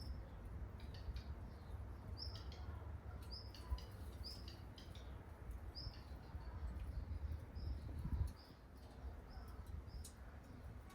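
A small bird repeating a short high chirp about once a second, over a low rumble that drops away about eight seconds in.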